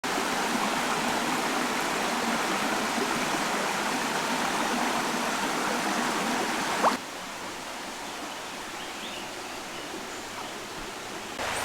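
Running water of a rainforest stream, a steady rushing. About seven seconds in it cuts abruptly to a quieter stretch of flowing water.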